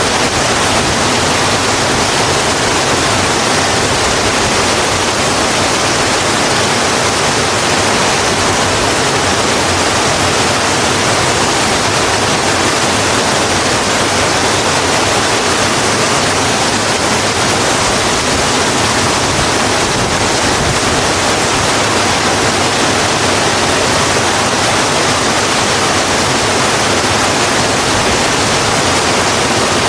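Steady, heavy rain falling on a road: an even, unbroken hiss with no single drops or thunder standing out.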